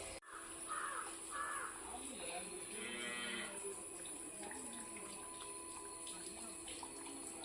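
A cow mooing, one drawn-out call around two to three seconds in, with two short crow caws about a second in, over a faint steady outdoor background.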